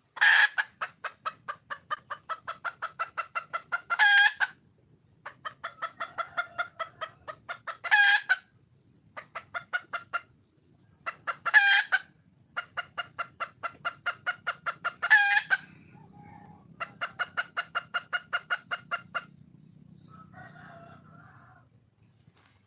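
Red junglefowl hen cackling to call a male. She gives bouts of rapid clucks, about five a second, each ending in a louder drawn-out note, five times over. A last run of clucks near the end has no loud note.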